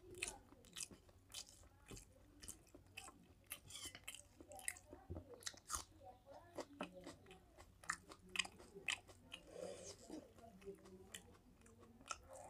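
Close-up chewing and lip-smacking of mouthfuls of rice and mutton curry: an irregular run of short, wet clicks, several a second.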